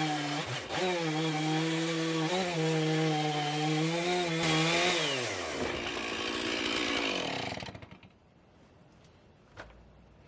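Chainsaw running at high revs under load, its pitch dipping briefly now and then. About five seconds in the throttle is released and the saw winds down, falling in pitch and dying away by about eight seconds; a faint click follows.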